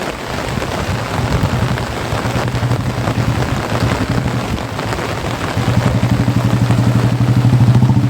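Heavy monsoon rain and rushing floodwater hiss steadily. Under it a motor engine runs with a steady pulsing note, growing much louder a little over halfway through as it comes closer.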